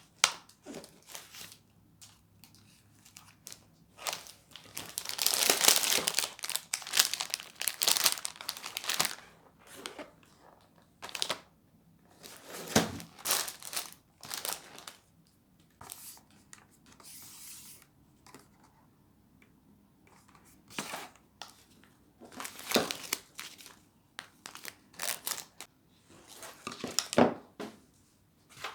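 Irregular crinkling and tearing of something being handled during food preparation, coming in scattered bursts with quiet gaps; the longest run is about five to nine seconds in.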